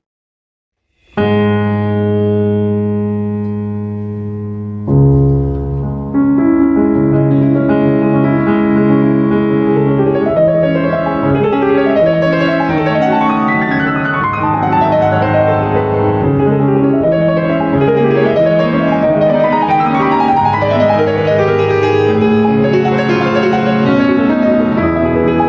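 Piano music. After about a second of silence a held chord sounds, a deep bass note comes in around five seconds in, and from about six seconds a flowing melody over busy accompaniment plays on.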